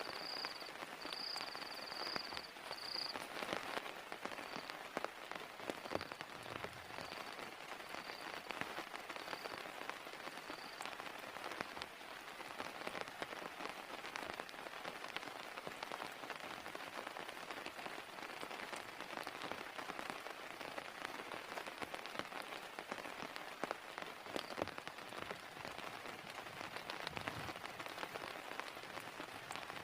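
Steady rain, with many separate drops ticking close by. A high, repeated chirp sounds over it at first, growing sparse and stopping about ten seconds in.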